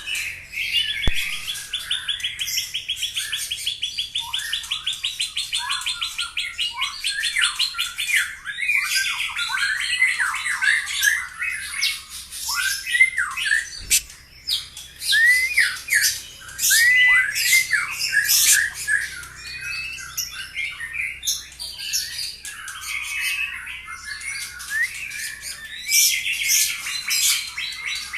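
White-rumped shama (murai batu) singing a long, varied song loaded with mimicked phrases (isian): it opens with a rapid trill lasting about eight seconds, then runs through quick whistled notes that rise and fall, mixed with sharp high chips.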